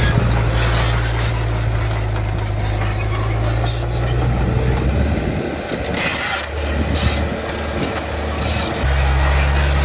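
Heavy diesel earthmoving machinery running, with a steady deep engine drone. The drone drops away for a few seconds around the middle and returns strongly near the end, while short scraping and clanking noises come and go over it.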